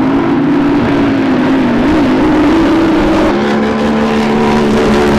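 Drag boat engines running loud, one engine's pitch wavering up and down with the throttle; a second, steadier engine note joins about three seconds in.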